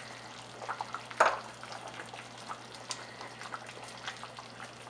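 A pot of chicken curry soup simmering, with a steady bubbling hiss and scattered small pops. There is one sharper knock about a second in.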